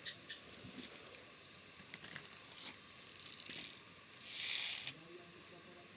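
Plastic toy trucks being handled: light clicks and rattles, with a few short scraping rustles, the loudest about four seconds in.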